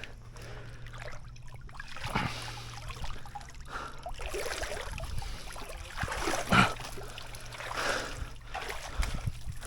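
Water trickling and lapping against a fishing boat, with a few scattered knocks and clatters of handling on the boat, the loudest about two-thirds of the way through.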